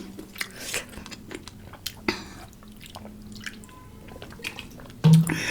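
A person chewing food, with scattered soft mouth clicks. A louder, short sound begins near the end.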